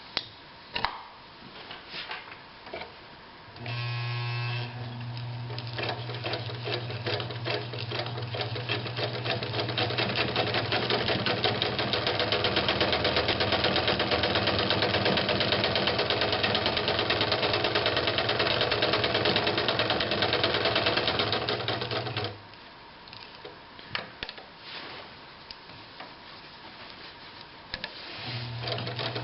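Japanese-made 1960s Bradford electric sewing machine sewing a straight stitch: a motor hum under a fast, even needle clatter that picks up speed and runs steadily for most of the stretch. It stops suddenly, a few clicks follow, and it starts sewing again near the end.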